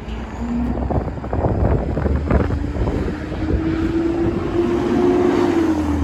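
Garbage truck engine revving hard, its pitch climbing over a few seconds and falling away near the end, over a low rumble, with a few knocks in the first half.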